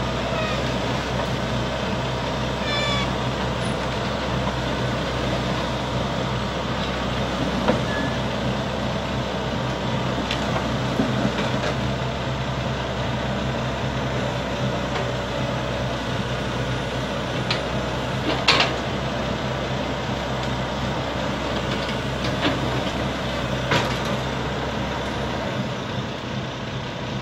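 Heavy diesel engine running steadily as an excavator loads onto a semi-trailer, with several sharp metallic clanks scattered through.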